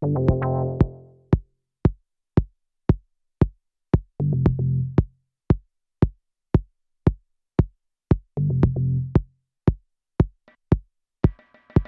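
Ambient techno: a drum machine kick on every beat, about two a second, with a low synth chord coming in roughly every four seconds. A brighter, hissy synth sound enters near the end.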